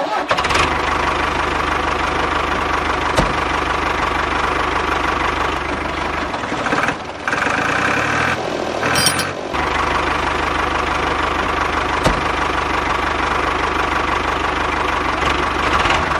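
An engine or motor running steadily, with a few seconds of uneven running in the middle.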